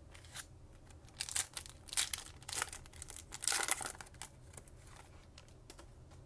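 A foil trading-card pack wrapper being torn open and crinkled, a run of irregular crackles and rustles that is loudest between about one and four seconds in.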